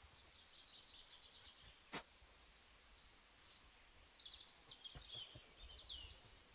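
Faint bird chirps and short twittering calls, busiest in the second half, with a single sharp click about two seconds in.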